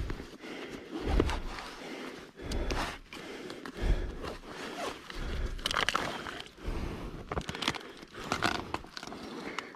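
Irregular footsteps and scuffing on loose dirt, with scraping and crunching between the steps.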